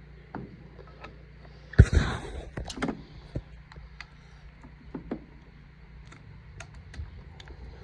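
Metal tools and baler knotter parts clinking and knocking as they are handled, with one loud clank just under two seconds in followed by a brief scraping rustle, then scattered light clicks.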